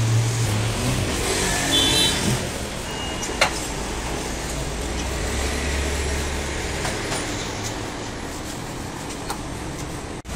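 A steady low engine rumble, with a single sharp click about three and a half seconds in.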